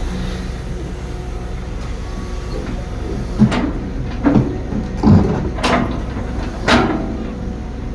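Heavy excavator's diesel engine running steadily, with five loud metallic clanks and scrapes starting about three seconds in.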